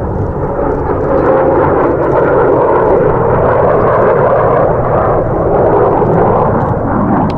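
Loud, steady jet noise from the F-22 Raptor's twin turbofan engines as it flies its air show display. The sound grows louder about a second in.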